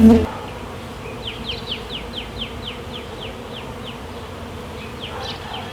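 Honey bees buzzing around a freshly hived colony and the package box they came in. A loud low hum cuts off just after the start, and a run of quick, falling, high chirps, a little over four a second, comes in about a second in.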